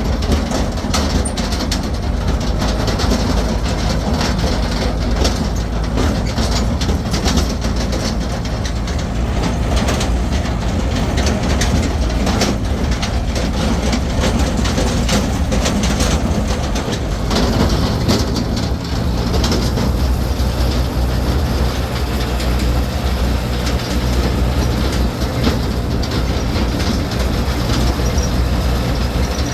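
An engine running steadily with a low hum, over continuous rattling and clattering, like a vehicle moving over rough ground.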